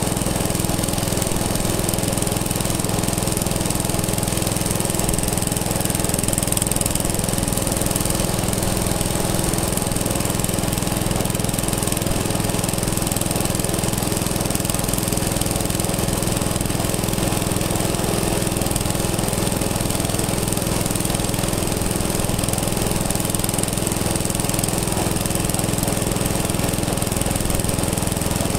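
An engine running steadily at an even speed, with a fast chugging beat.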